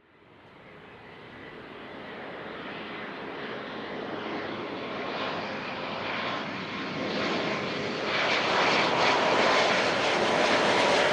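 Business jet engines growing steadily louder as the jet draws near, a dense jet roar with a steady whine in it that peaks near the end.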